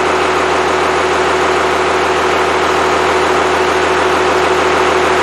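Freshly rebuilt Cummins 5.9L 12-valve inline-six turbodiesel running steadily at an even speed, on its first run after the rebuild.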